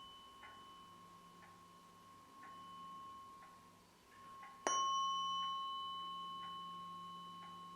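A tuning fork rings a steady high tone that slowly fades. It is struck again a little past halfway with a sharp click, and the ring comes back louder and fades once more.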